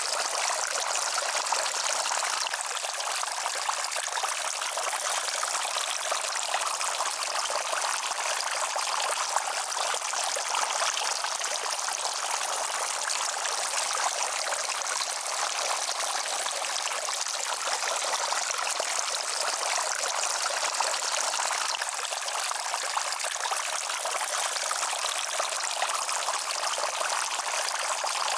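Steady rushing of running water, an even hiss with no bass and no distinct splashes.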